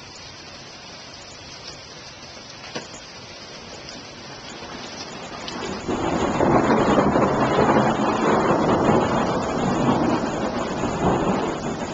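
Rain, a steady hiss at first that swells about halfway through into a loud, rushing downpour with a deep rumble.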